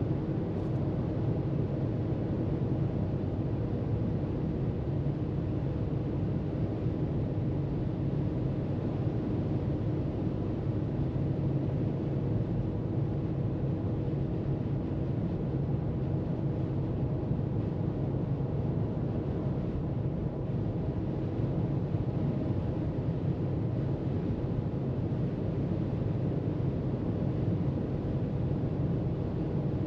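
A car travelling at freeway speed: steady tyre and road noise with a low, even drone.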